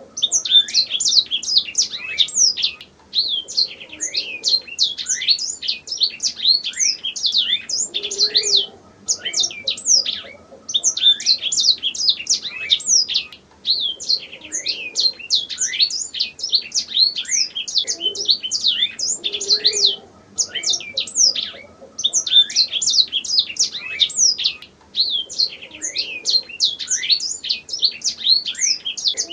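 Domestic canary singing: long, fast runs of chirps and trills, each phrase broken off by a short pause every few seconds.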